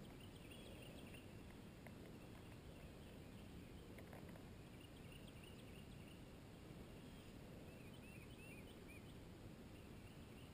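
Near silence: a faint low rumble with faint, high bird chirps scattered through, including a quick run of four or five short chirps about eight seconds in.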